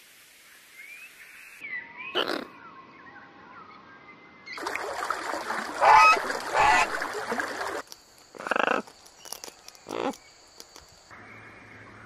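Birds calling in a string of separate clips: short calls and whistled glides, then a louder stretch of repeated calls over a rushing background from about five to eight seconds in, and two more single calls after it.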